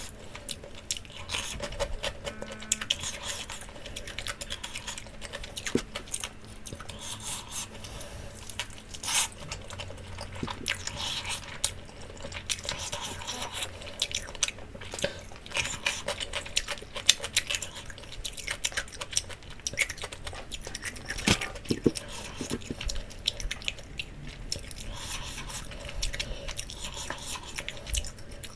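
Close-miked chewing and biting of roasted jerk chicken, with dense, irregular wet smacks and crisp clicks throughout.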